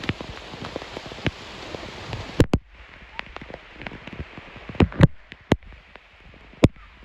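Rain falling, a dense hiss of patter full of small drop impacts. About two and a half seconds in the steady hiss drops away abruptly, leaving scattered single heavy drops hitting close by with sharp, loud taps.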